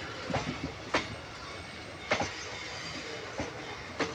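Indian Railways passenger coaches rolling past with a steady rumble. The wheels give sharp, irregular clacks, some in quick pairs, as the bogies cross rail joints.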